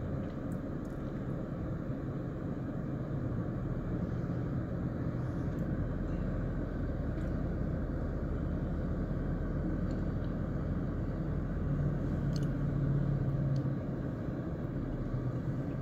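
Steady low rumble of a car engine running, with a humming note that gets a little louder about twelve seconds in.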